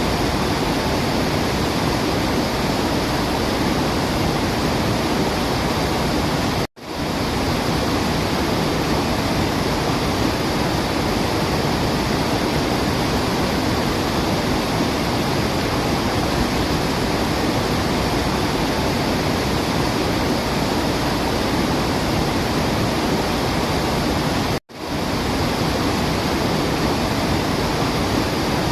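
Steady, even rushing of falling water, with no birdsong audible. Twice the sound cuts out for an instant and swells back in, about seven seconds in and again a few seconds before the end.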